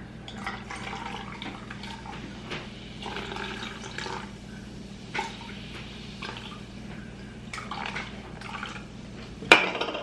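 Soda being poured into a cup in several short pours, with small clicks, and one sharp knock about 9.5 s in.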